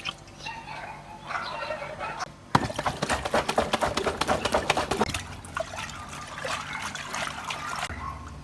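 Water pouring and splashing, turning suddenly loud and dense about two and a half seconds in for a couple of seconds, then easing off.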